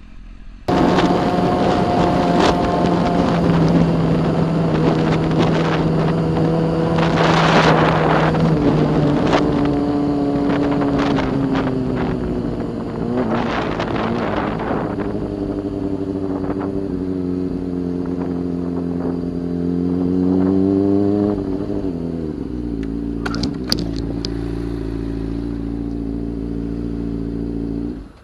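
Motorcycle engine running while riding, a steady note that drifts gently up and down in pitch with a few rushes of noise. It starts abruptly just under a second in and cuts off near the end.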